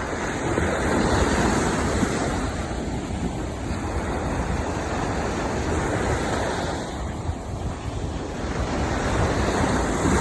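Sea waves breaking and washing up the beach, swelling about a second in and again near the end, with wind rumbling on the microphone.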